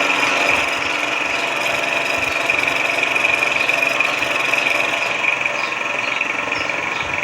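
Benchtop machine tool running steadily, its motor and cutting giving a continuous high whine.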